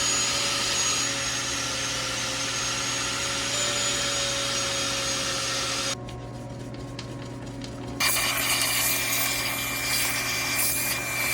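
A power tool with a wire wheel running against a rusty intake manifold, its motor whining steadily under a rough scraping as it strips the rust. The sound drops away for about two seconds in the middle, then the tool runs again at a different pitch.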